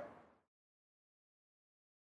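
Near silence: a faint fading tail of the preceding sound dies away in the first half second, then dead digital silence.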